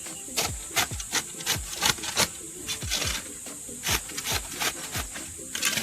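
Repeated rough scraping strokes, irregular, about two to four a second.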